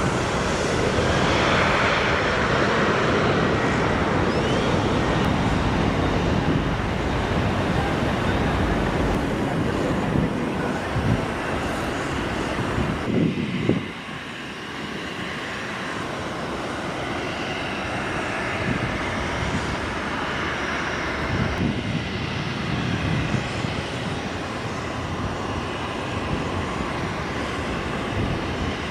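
Boeing 737-700's CFM56 jet engines running, a steady broad rushing noise that drops abruptly in level about fourteen seconds in and then carries on more quietly.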